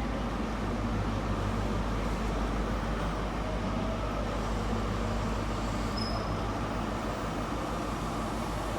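Class 43 HST diesel power car idling steadily in the platform, a constant low engine hum.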